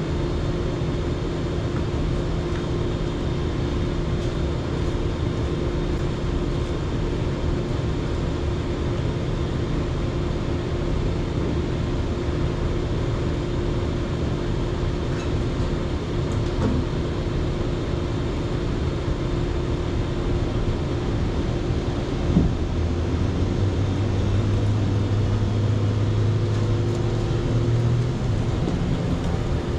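An engine running steadily throughout, with a short knock about 22 seconds in and a deeper hum joining soon after, which fades near the end.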